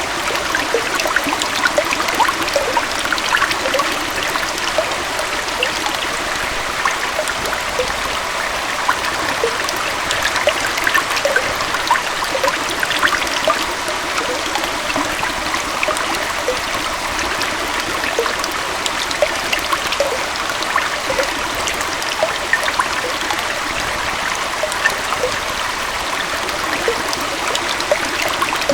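Small waterfall or forest stream flowing steadily, a continuous splashing rush of water with many small droplet splashes and trickles through it.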